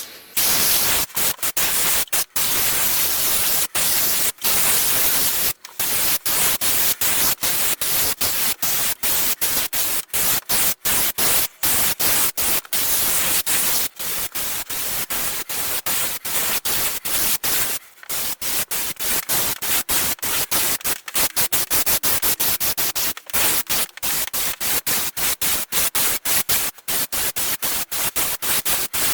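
Upholstery adhesive being sprayed, a loud hiss that is broken off again and again by brief, irregular gaps, as in short repeated bursts from the spray.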